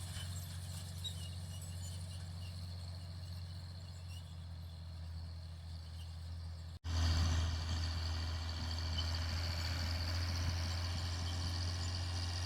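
Fiat 980 DT tractor's diesel engine running steadily. The sound drops out for an instant about seven seconds in and comes back louder.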